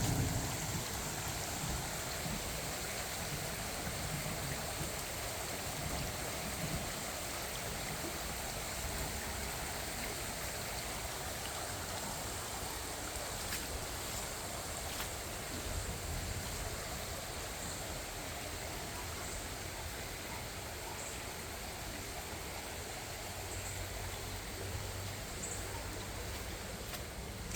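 Floodwater running steadily, a continuous rush of water.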